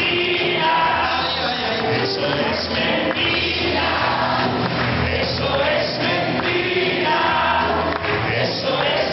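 Congregation singing a Christian worship song together with an amplified band.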